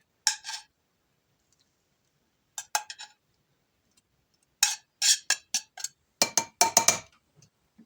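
A spoon clinking and tapping against dishes as toppings are spooned onto a bowl of soup. The knocks come in short clusters: one right at the start, a few near three seconds, and a busier run in the second half.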